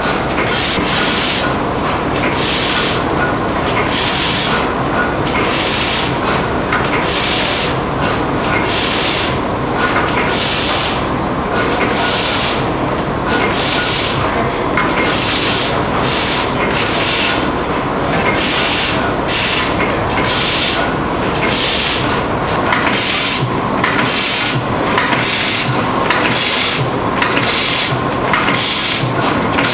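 Old stationary engines running, with a steady beat of exhaust puffs about once a second that comes a little faster in the second half.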